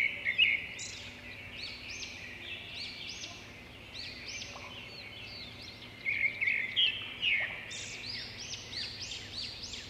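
Many small birds chirping with overlapping calls, louder near the start and again about six to seven seconds in.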